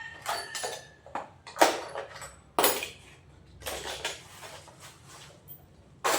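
Metal spanners clinking and clanking in a series of sharp separate knocks as different sizes are picked up and tried on the odd-sized nut holding a motorcycle ignition coil.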